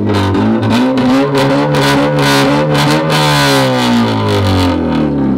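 Engine of a replica Bugatti Centodieci running under throttle through its custom four-outlet exhaust. The pitch climbs over the first three seconds, then falls steadily as the car comes off the throttle.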